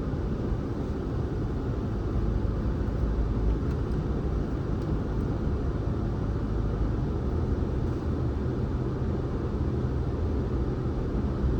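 A car driving along the road: steady, low tyre and engine rumble with no distinct events.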